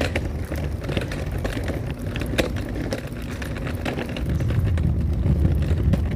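Wheels of a walker rolling over pavement: an uneven low rumble with scattered clicks and rattles, getting heavier after about four seconds.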